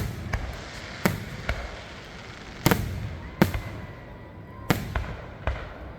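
Fireworks exploding overhead in an irregular string of sharp booms, about eight in six seconds, each trailing off with an echo.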